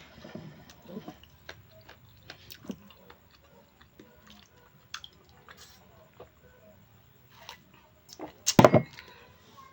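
A person chewing food close to the microphone, with faint, scattered mouth clicks, and one louder knock about eight and a half seconds in.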